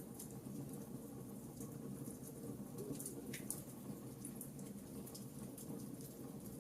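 Wood fire crackling in a fireplace: scattered small pops and snaps over a steady low hiss, with one sharper snap about halfway through.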